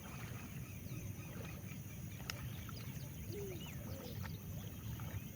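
Small birds chirping and calling over a steady low rumble, with a single sharp click a little past two seconds in.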